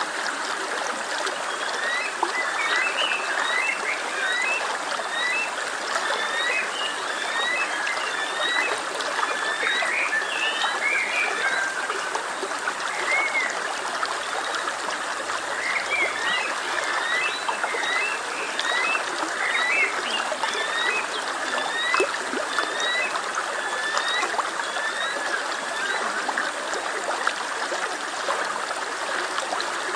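Stream running steadily, with many short, high chirping calls over the water sound.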